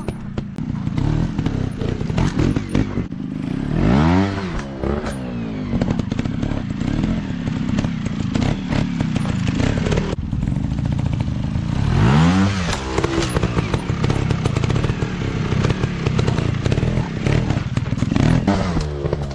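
Dirt bike engines running off-road, revving up and back down three times, with a rough crackly exhaust throughout.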